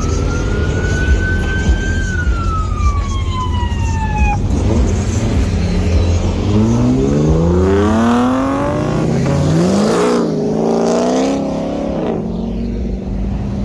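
A vehicle engine running with a low rumble, then revving up and wavering from about halfway through. A siren-like tone rises and then falls away over the first four seconds.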